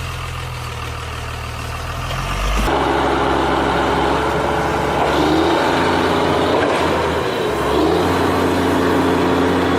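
Truck engine sound running steadily. About three seconds in it switches abruptly to a louder, fuller run, with a couple of brief rises in pitch like revving.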